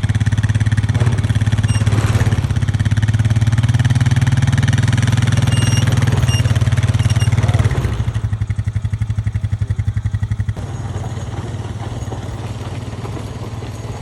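A small vehicle's engine running steadily under load as it pulls the chicken tractor, with a fast even pulse. About eight seconds in it drops noticeably, and again a couple of seconds later, settling to a lower, quieter run.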